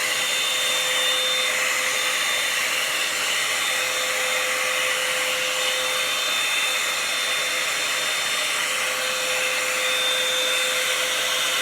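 Revlon One-Step hot-air brush dryer running steadily: a constant rush of blown air with a steady motor whine over it.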